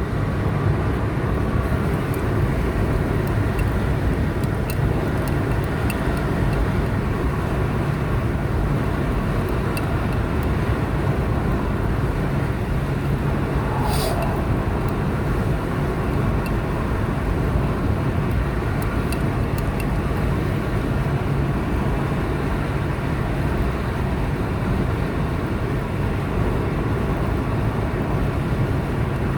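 Car driving at a steady speed on a highway: even tyre and engine noise with a low steady hum, and one sharp click about halfway through.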